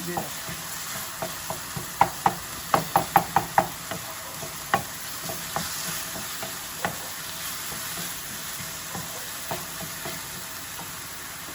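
Chopped onions and ginger-garlic paste frying in oil in a pan, sizzling steadily, while a spatula stirs and knocks against the pan. There is a quick run of clicks about two to four seconds in and a few more knocks later.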